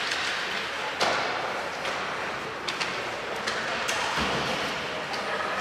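Ice hockey game sounds in a rink: sharp knocks of sticks and puck, the loudest about a second in, over a steady murmur of the rink and spectators.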